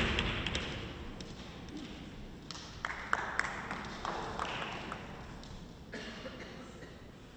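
Arena music fading out, then a quiet hall with a few light, sharp taps of a table tennis ball, as before a serve.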